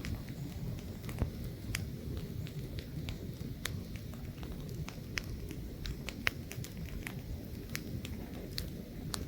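Wood campfire crackling, with irregular sharp pops scattered throughout, over a steady low rumble of light wind.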